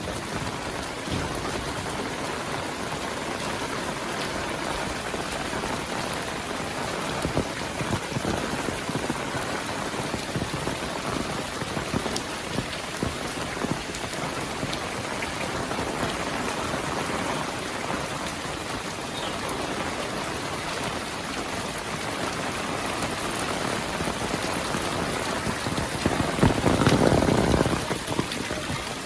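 Heavy rain falling steadily, individual drops heard as small ticks within the steady hiss. A louder, lower swell rises and falls for about two seconds near the end.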